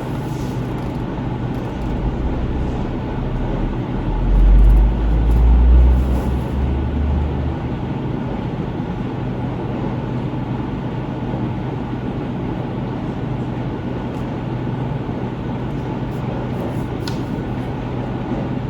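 Steady road and engine noise inside a moving car, with a low hum throughout. About four seconds in, a deep rumble swells for three seconds or so, then fades.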